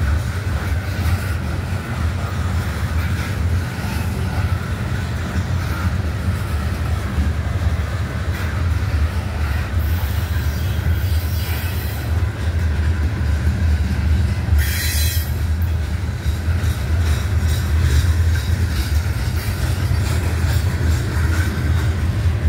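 Freight train cars rolling past a grade crossing: a steady heavy rumble and clatter of wheels on the rails, with some wheel squeal. A brief high-pitched screech comes about fifteen seconds in.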